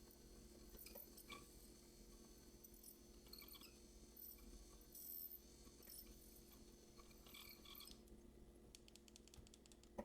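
Near silence: faint scraping and light ticking over a steady low hum, with a quick run of about ten tiny clicks near the end.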